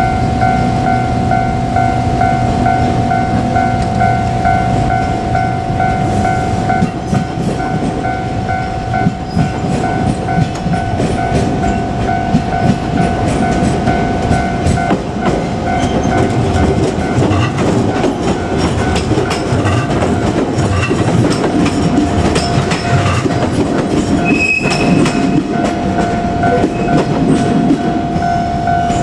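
Japanese level-crossing warning bell ringing steadily while a JR Kyushu 817 series electric train runs over the crossing, its wheels clicking rhythmically over the rail joints from about a quarter of the way in. A brief higher tone sounds late on.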